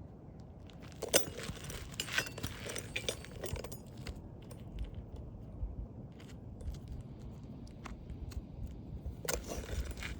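Scattered clicks, scrapes and light knocks from work on an asphalt shingle roof, with a sharp knock about a second in, a run of clicks soon after, and another knock near the end.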